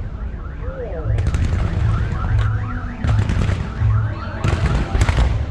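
Fireworks display going off, with a constant low rumble of launches and bursts and clusters of sharp crackling reports. Over it, from about a second and a half in, a rapidly repeating warbling tone rises and falls a few times a second.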